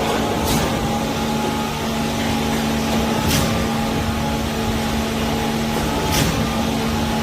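Concrete pump truck's engine running steadily with a strong hum, with a short hiss about every three seconds.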